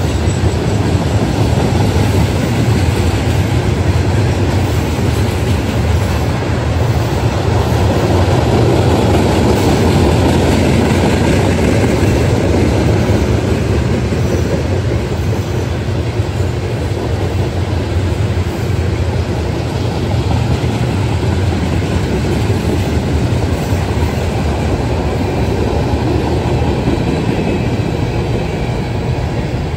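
Freight train cars, flatcars loaded with steel coils and then boxcars, rolling steadily past: a continuous noise of steel wheels running on the rails.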